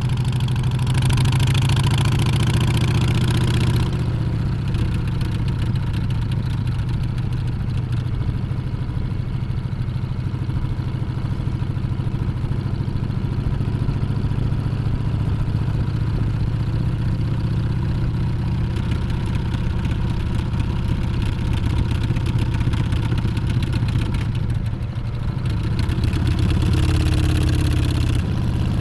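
Harley-Davidson Street Bob's Milwaukee-Eight 114 V-twin engine running under way. It is louder and brighter for the first few seconds and again near the end, and softer in between.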